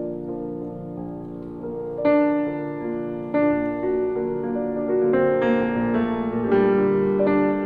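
Background piano music: slow, sustained notes, with a new note or chord struck every second or so.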